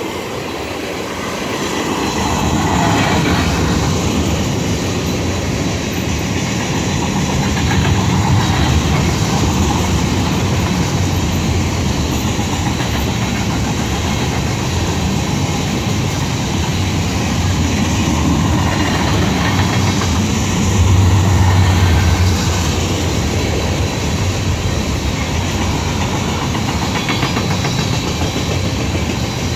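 Freight train of tank cars rolling past: a steady rumble and rattle of steel wheels on the rails. The low rumble grows louder for a couple of seconds about two-thirds of the way through.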